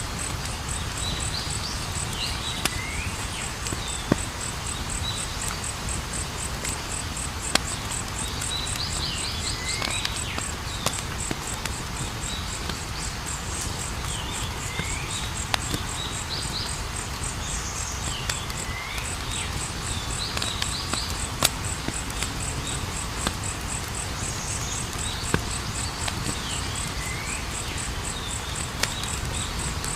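Campfire burning with a low rumble and a few sharp pops, while insects chirp in a fast, even pulse and a bird repeats a short phrase of falling whistles every few seconds.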